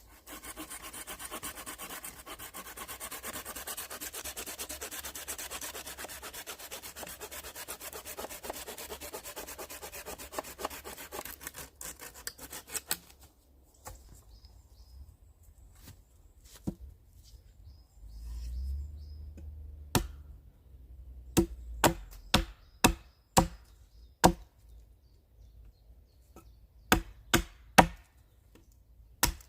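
Hand tools working dead wood: a hand saw rasps steadily through a limb for about twelve seconds, then from about twenty seconds in comes a run of sharp, irregular chopping knocks.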